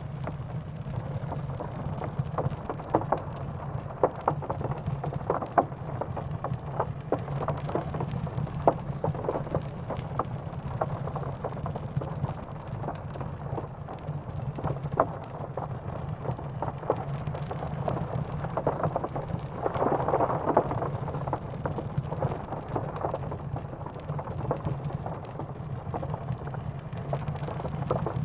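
Steady rain ambience mixed with a crackling wood fire: a continuous wash of rain with frequent short, sharp pops and crackles, and a louder swell about twenty seconds in.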